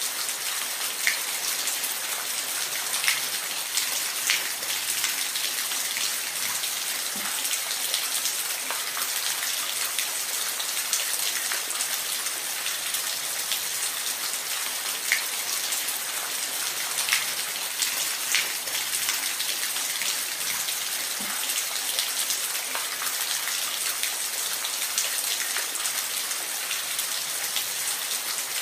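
Waterfall: a steady hiss of falling water, mostly high-pitched, with scattered sharp drips or splashes standing out now and then.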